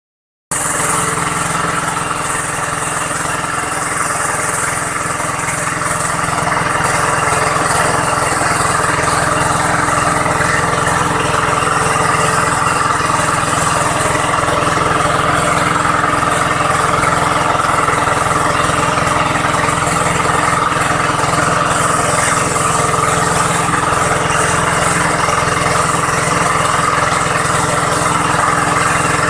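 An engine idling steadily with a constant hum.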